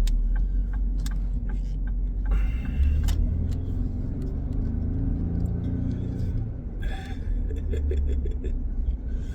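Car driving, heard from inside the cabin: a steady low engine and road rumble, with a clearer engine note between about three and six seconds in and a few light clicks.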